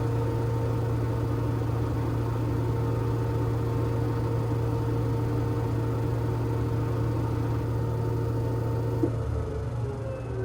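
LG washing machine running with a steady motor hum and a constant whine. About nine seconds in there is a brief click, after which the sound drops a little and its pitch starts to shift.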